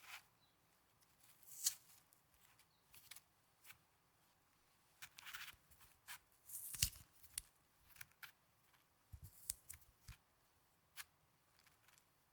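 Snow handled close to the microphone: scattered soft crunches and crackles, irregular and spaced out, with quiet gaps between. The most distinct ones come about a second and a half in and just past the middle.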